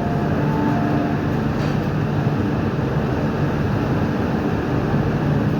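MTR Q-train metro carriage running at speed: a steady rumble of wheels on track and running gear heard inside the car, with a faint motor whine that fades out about a second in.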